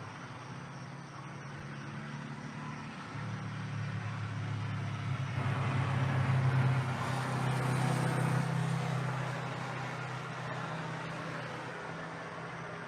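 A motor vehicle passing by: an engine hum and tyre noise grow louder, peak about halfway through, then fade away.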